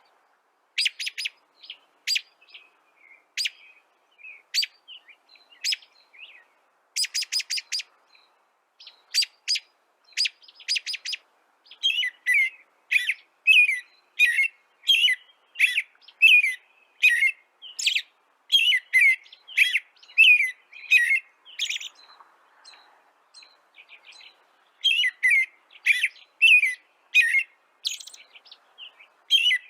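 Birds chirping in quick, repeated short calls: sparse at first, then a dense run of chirps, with a short lull a little past the middle.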